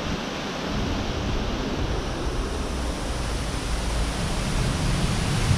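Heavy rain pouring in a severe thunderstorm while strong wind gusts buffet the microphone; the low rumble of the wind builds about half a second in and grows stronger near the end.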